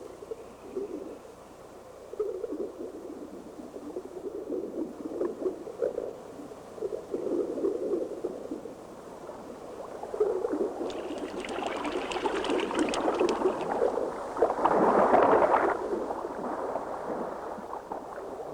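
Sea water sloshing in uneven swells, turning into louder, brighter splashing a little past halfway, loudest about three-quarters of the way through.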